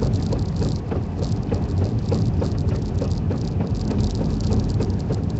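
Vehicle running on a snowy road, heard from inside the cab, with a regular clinking about three times a second from tyre chains.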